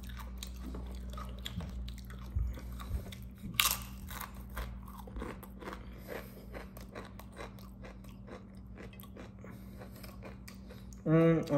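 Close-up chewing of a fish torta sandwich: a run of small crunches and wet mouth clicks, with a sharper bite about three and a half seconds in.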